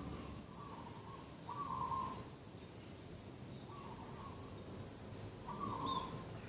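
Dove cooing: short, even coos at one pitch, repeating in pairs every second or so, over a faint low background hum.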